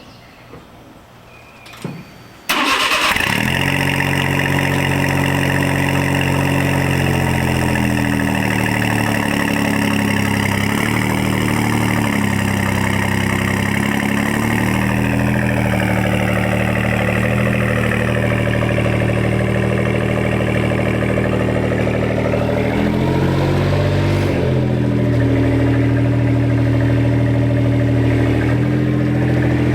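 1999 Suzuki Carry kei truck's three-cylinder engine starting about two seconds in and then idling through its new custom exhaust, its pitch shifting a little now and then. A few faint clicks come before the start.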